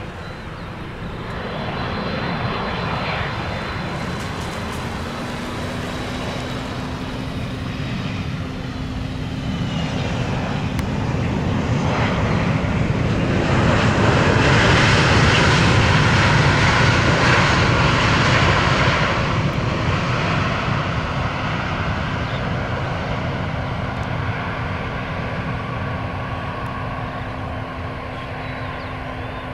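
Airbus A330-300's twin Pratt & Whitney PW4000-series turbofans passing by. The jet noise builds to its loudest about halfway through, then fades, with a steady low engine hum running under it.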